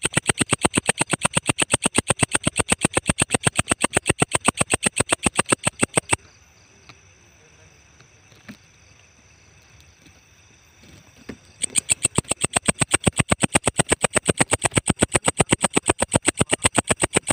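Walang ecek insect calling: a fast, even, high-pitched train of clicks that stops about six seconds in and starts again after a pause of about five seconds.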